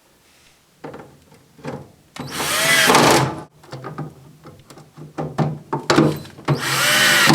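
Cordless drill-driver driving screws back in: two runs of about a second each, the motor's pitch rising and falling, with small clicks and knocks between them.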